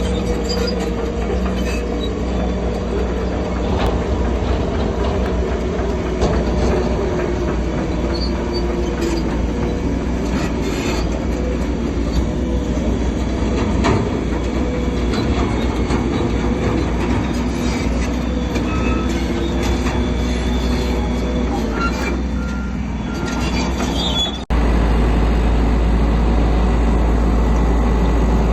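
Crawler bulldozer working: diesel engine running under load, with squealing and clanking from its steel tracks. About four seconds before the end the sound cuts abruptly to a steady, deeper engine drone.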